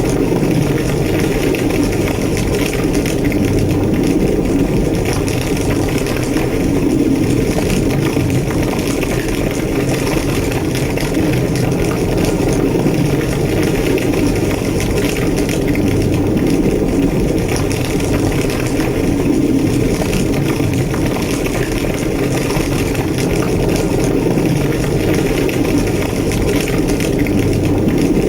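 Large fire burning with a steady low roar and continual crackling.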